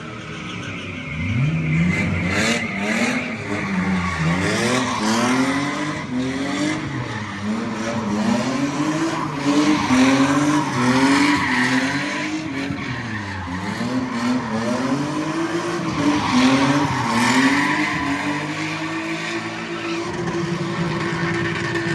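A drifting car's engine revving up and down again and again, with tyres squealing and skidding. Near the end the engine holds a steady high rev.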